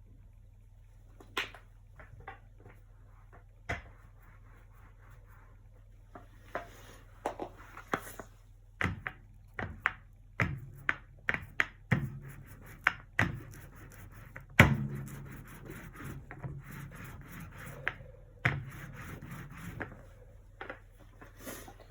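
Acrylic painting tools and supplies being handled on a work surface: scattered clicks and taps, then a busier stretch of knocks, rubbing and scraping, with one loud knock about two-thirds of the way through, over a steady low electrical hum.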